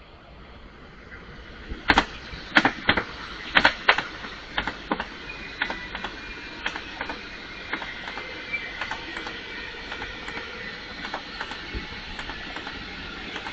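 A train passing, its wheels clicking over rail joints in pairs about a second apart, over a steady rolling noise, with a faint high wheel squeal through the middle.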